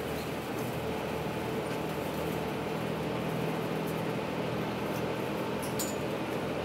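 Steady mechanical hum of a train, low even tones over a constant rush of noise, with a couple of faint ticks near the end.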